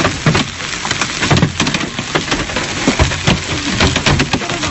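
Heavy rain from a thunderstorm falling hard, with many sharp hits of drops on a nearby surface.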